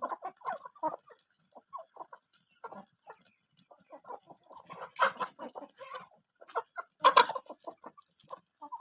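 A flock of chickens clucking, many short calls overlapping, with two louder calls about five and seven seconds in.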